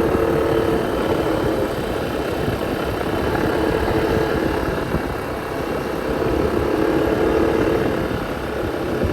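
Motorcycle engine running steady under a constant rushing noise; its hum weakens in the middle and strengthens again later.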